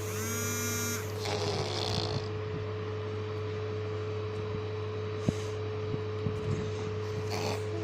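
A steady low mechanical hum runs throughout. In the first second a brief high, steady squeal is heard, followed by a short hiss, and a short breathy noise comes near the end.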